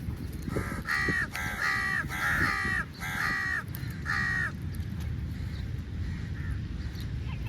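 Crow cawing: about five harsh caws in quick succession, starting about a second in, over a steady low background rumble.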